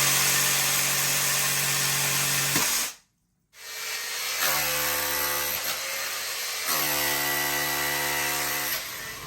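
Handheld electric power tool running at a steady speed, worked on a dented area. It cuts off completely about three seconds in, then runs again in two stretches at slightly different speeds.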